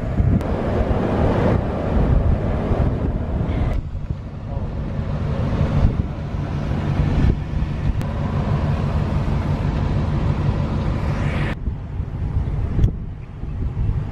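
Wind buffeting the microphone over vehicle road noise and a steady low engine hum. The sound changes abruptly several times, as at cuts between short clips.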